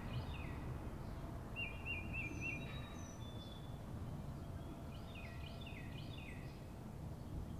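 Faint bird chirps and short whistled calls, several quick descending notes in clusters with a brief warbling trill about two seconds in, over a steady low background rumble.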